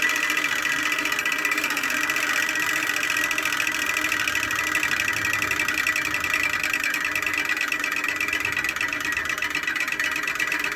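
Hand-spun bicycle drivetrain of a home-made bike 'engine' running steadily: a continuous whir with a high steady tone and very fast, even ticking.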